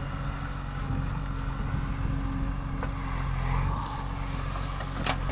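Vehicle engine running steadily at a constant speed, a low even hum.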